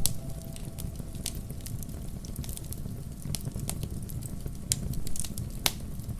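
Wood fire crackling in a fireplace: a steady low rumble of flames with irregular sharp pops and snaps, one louder pop near the end.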